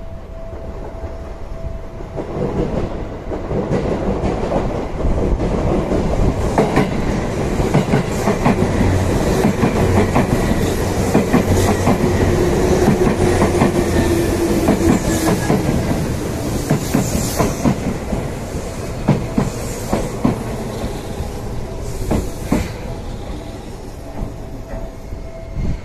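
Seibu 2000 series electric train passing close by. The rumble builds over the first few seconds, the wheels click steadily over the rail joints, and a faint hum rises and falls around the middle. The sound eases off near the end as the train goes by.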